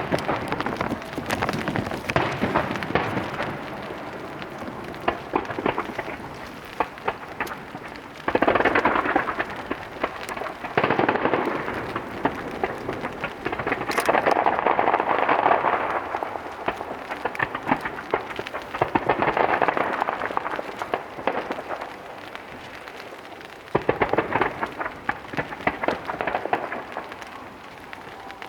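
Starmine fireworks barrage: a dense crackle of many shells bursting in quick succession with rumbling booms, swelling in several loud waves, the loudest about halfway through.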